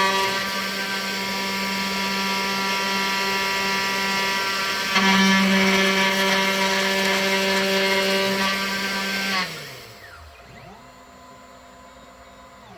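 Small CNC router's spindle motor running with a steady whine, stepping up louder about five seconds in. Near the end it winds down, falling in pitch, and a faint steady hum is left.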